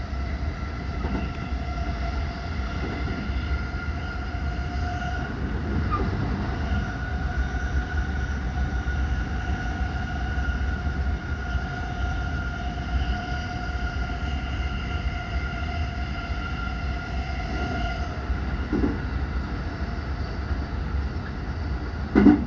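Inside a JR West 223 series 2000 electric multiple unit running at speed: a steady low rumble from the car with a steady whine over it that fades out most of the way through. A single sharp thump comes near the end.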